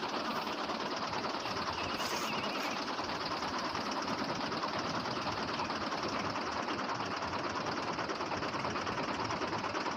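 A small motor running steadily, with a fast, even chatter.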